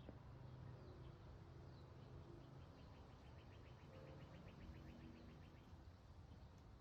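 Near silence: faint background hiss, with a faint rapid ticking trill of about nine ticks a second for a couple of seconds in the middle.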